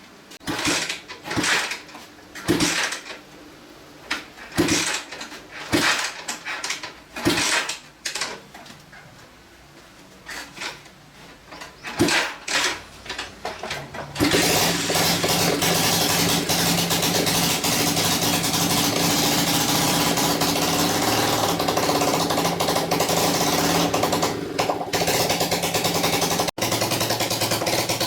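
Restored old motorcycle engine: a run of short separate bursts for about the first half, then it starts and runs steadily.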